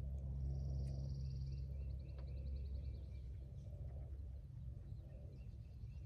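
Songbirds singing: a fast high trill about half a second in, running into a string of quicker notes, with scattered short chirps around it, over a steady low rumble.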